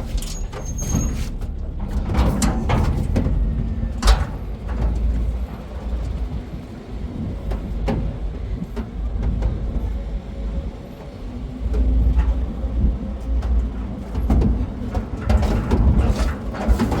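Motor vehicle running, with a heavy low rumble and scattered knocks and rattles.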